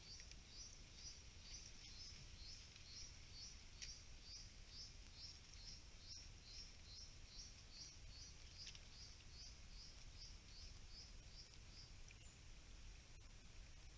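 Faint, high chirp repeated evenly about three times a second, an animal calling in the forest, that stops about eleven seconds in, over a low steady hiss.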